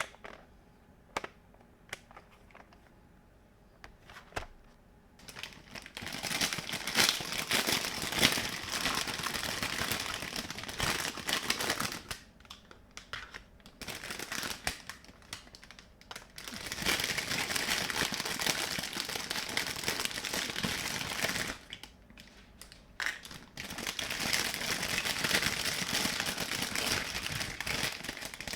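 Crackling sizzle sound effect from a toy kitchen stove's speaker, simulating stir-frying, played in three stretches of several seconds each that start and stop abruptly.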